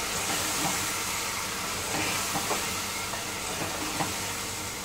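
Chicken in tomato-and-spice gravy sizzling steadily in an aluminium pot while a wooden spoon stirs it, with a few taps of the spoon against the pot.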